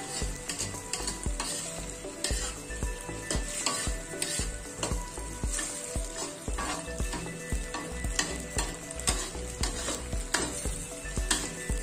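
Tofu and dried shrimp sizzling in hot oil in a pan while a spatula stirs them, with repeated scraping strokes against the pan, roughly two a second.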